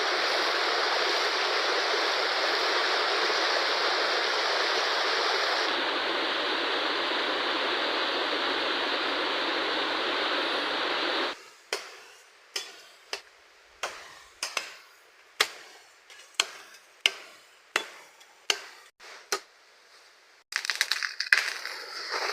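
Fast-flowing river rushing steadily. About eleven seconds in it cuts off abruptly to a string of sharp knocks, roughly one or two a second, ending with a short, dense burst of rattling.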